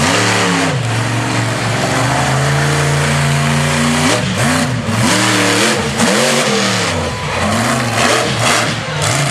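Monster truck engine revving hard. It climbs and holds at high revs for a few seconds, then is blipped up and down several times in quick bursts of throttle.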